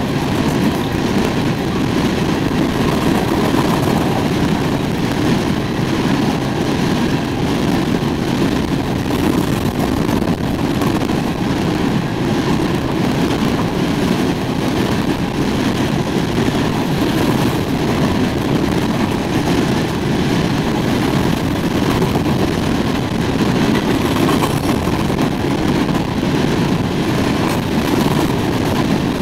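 Empty coal gondolas rolling past at speed: a steady rumble of steel wheels on rail, even throughout.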